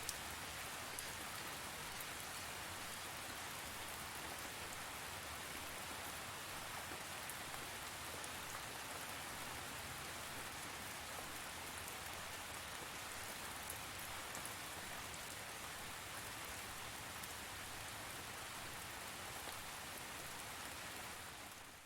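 Steady rain falling on a surface, a dense even hiss with scattered drop ticks, fading out at the very end.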